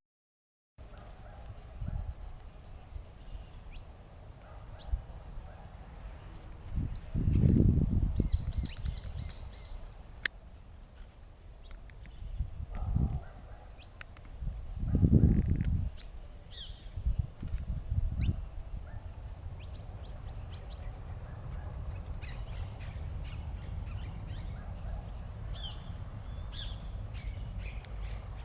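Scattered short, high chirps of saffron finches. A steady high-pitched whine runs underneath, and low rumbling noise on the microphone is loudest about seven and fifteen seconds in.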